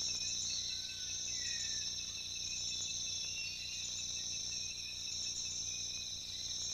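Steady, unbroken chorus of rainforest insects, a high continuous shrilling in two pitch bands, with a couple of brief faint chirps about a second in.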